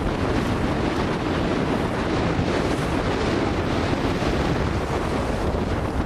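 Steady wind buffeting the microphone, with water washing and rushing along the hull of a sailboat under way.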